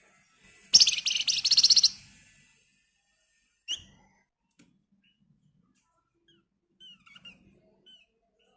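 Flamboyan (wergan Jawa) songbird giving a fast, tightly packed rattling trill about a second long. It follows with a single sharp note, then a few faint short chirps near the end.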